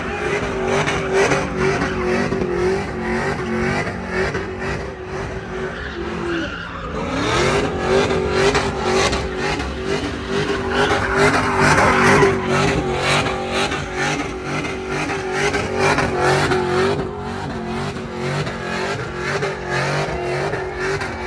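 Pickup truck engine held at high revs during a burnout, with the tires spinning and squealing. The revs drop briefly about six seconds in, then climb back up and hold.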